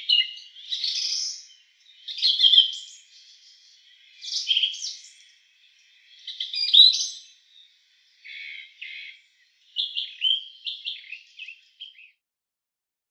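Recorded nightingale song: a string of short, varied phrases of whistles, trills and chirps with brief pauses between them, ending about twelve seconds in.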